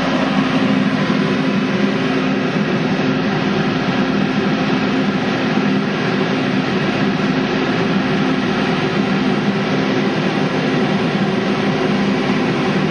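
Paint booth exhaust fan running steadily at full speed: a loud, even rush of air with a steady hum, pulling strong suction through 4-inch dual exhaust ducting.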